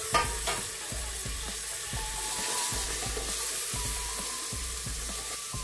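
Diced tomatoes, peas and spice masala sizzling as they fry in an aluminium pot, stirred and scraped with a wooden spatula. A sharp knock of the spatula against the pot just after the start, then a smaller one.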